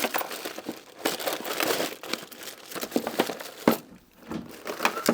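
Hands rummaging through a box of loose hardware, with bolts, nuts and washers clinking, scraping and rattling against each other in quick irregular clicks and knocks.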